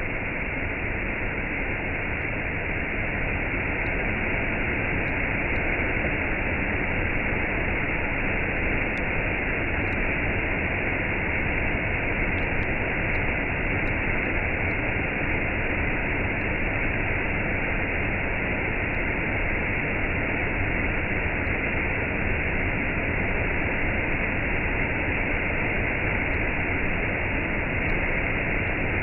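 Waterfall and cascade, water falling in an unbroken, even rush.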